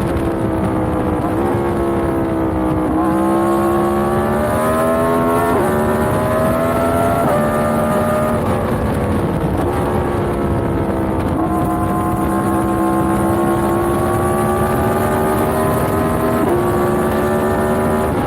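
Yamaha MT-10's crossplane inline-four running under way. Its pitch climbs gradually and then steps up or down at each of several gear changes.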